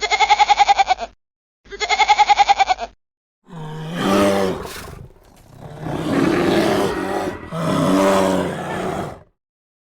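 Two short, quavering goat bleats, followed by three longer, lower and rougher animal calls.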